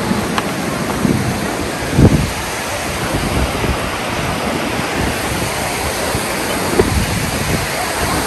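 Steady rushing of water from a waterfall, with a few short low bumps on the microphone about 1 and 2 seconds in and near the end.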